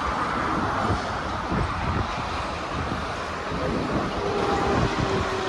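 Steady rumbling, rushing noise of passing vehicles.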